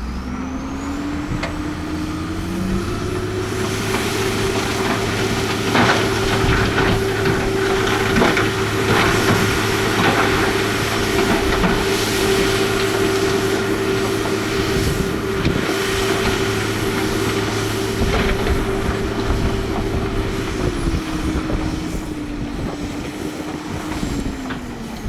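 Diesel engine of a heavy earthmoving machine revving up in the first few seconds, held at high revs under load, then easing off near the end, with scattered knocks and clatter over the first half.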